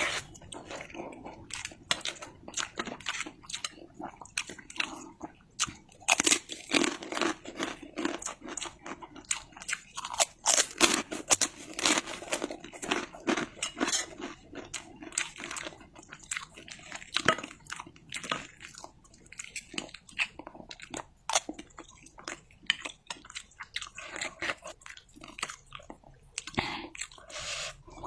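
Close-miked mukbang eating: a person chewing and crunching a meal of mi goreng with fried egg and chilies, with many irregular sharp, crackly crunches.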